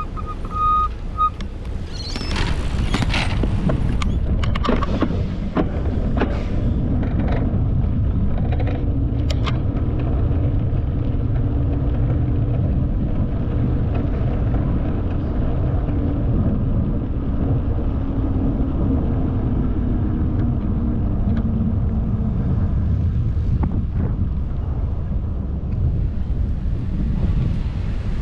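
Steady low rumble of wind and rolling noise from a bicycle ride, with scattered clicks and rattles in the first ten seconds or so.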